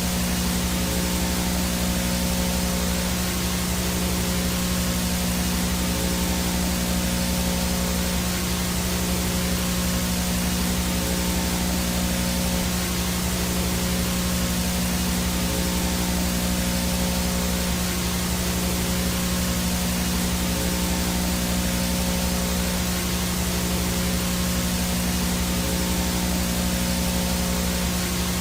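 Steady hiss of VHS static with a low electrical buzz under it: the noise of an analog video signal with no transmission, as from a blank tape or an untuned set.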